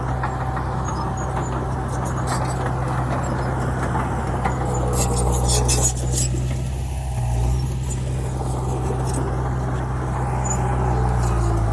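Heavy earthmoving machine's diesel engine running steadily, with a burst of rattling and clanking about five seconds in and a change in engine note about seven seconds in.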